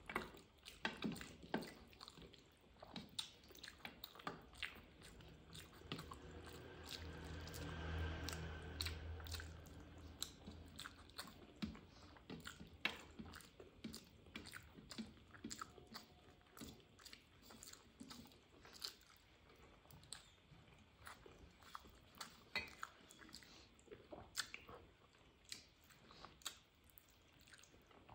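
Wet chewing and lip smacking of someone eating rice and curry by hand, with many small smacks and clicks throughout. A low hum lasts a few seconds in the middle.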